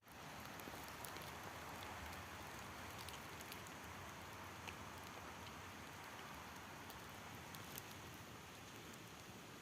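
Faint, steady forest ambience: an even hiss with scattered small ticks and patters.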